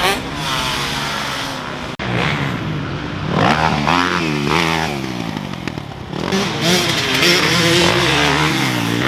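Dirt bike engine revving up and falling back again and again, as when riding a motocross track through gears and turns, with a brief cut about two seconds in.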